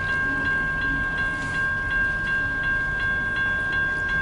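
Railroad grade-crossing bell ringing steadily, about three strikes a second, over the low rumble of freight cars rolling slowly through the crossing as the train slows.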